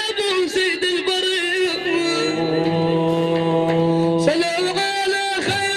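Arabic devotional madih sung by a male singer in an ornamented, wavering style over frame-drum strikes, with a long steady held note in the middle before the ornamented line resumes.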